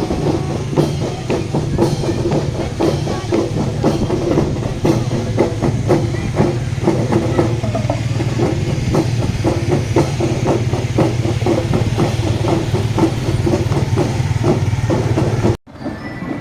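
Marching drum band playing: rapid drum strikes over a steady low tone. The sound cuts off abruptly near the end.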